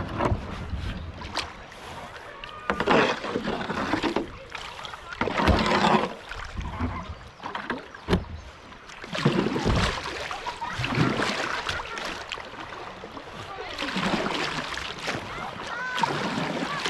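Kayak paddle strokes: the blades dipping and pulling through the river water in a series of uneven swishes and splashes.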